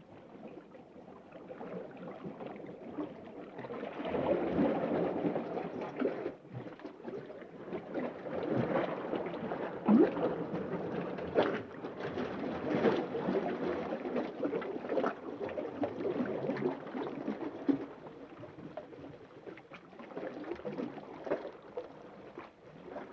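Underwater ambience: muffled, churning water noise that swells about four seconds in and eases off near the end, with a few sharp pops.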